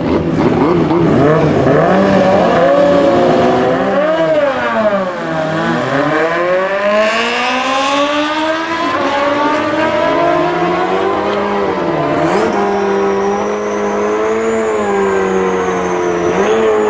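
Several racing engines running and revving at a drag strip, their pitch rising and falling together, with a dip about four seconds in before they settle to steadier running. A thin high whine joins about twelve seconds in.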